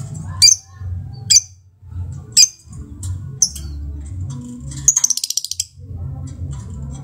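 Lovebird giving sharp, shrill squawks about once a second, then a rapid chattering trill lasting under a second, the 'ngekek' call; a steady low rumble runs underneath.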